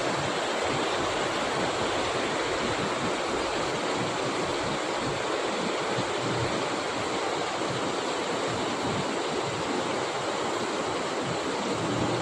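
Steady rainfall, an even hiss of rain with no breaks or separate sounds.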